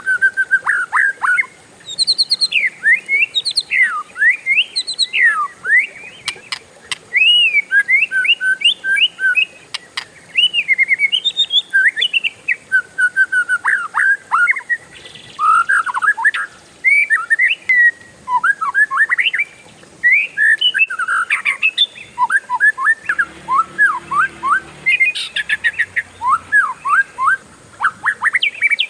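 Oriental magpie-robin singing a long, lively song of fast, varied whistled notes and sweeping phrases, strung together almost without pause.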